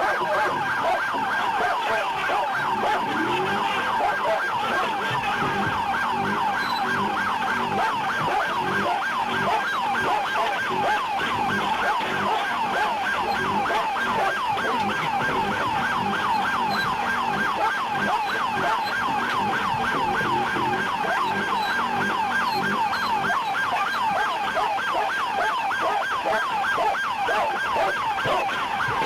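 Police car siren sounding continuously in a fast yelp, its pitch sweeping rapidly and evenly over and over.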